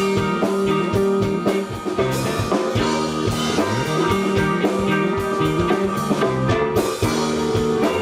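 Live band playing an instrumental passage with no vocals: a drum kit keeping a steady beat under guitar and a bass line that moves in steps.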